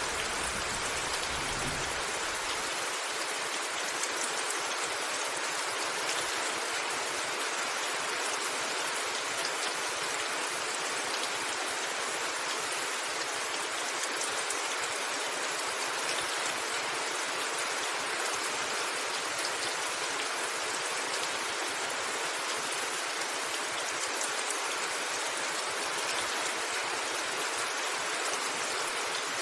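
Steady rain falling in a dense, even hiss. A low thunder rumble carries over at the start and stops about three seconds in.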